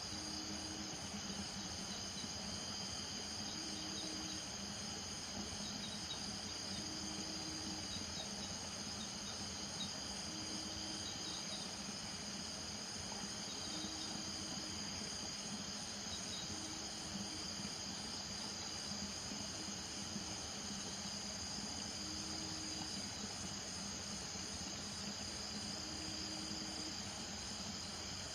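Night chorus of crickets trilling steadily and high, with a frog giving a short low call about every three seconds. A steady low hum runs underneath.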